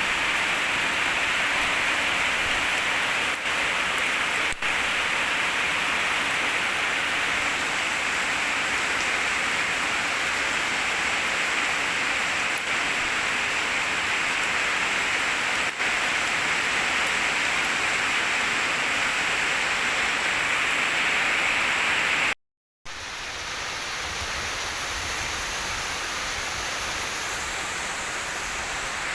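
Steady hissing spray of water from an H&L QL-1200 high-pressure jet cleaner's nozzle. About three quarters of the way in it cuts out for a moment, then carries on quieter.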